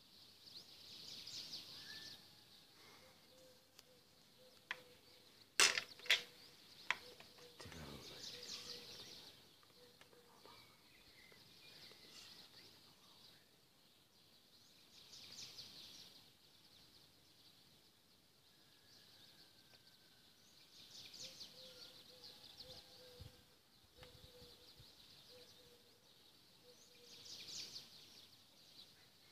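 Faint outdoor ambience with a bird giving a high, chattering call that repeats every six or seven seconds. A few sharp clicks about five to seven seconds in are the loudest sounds.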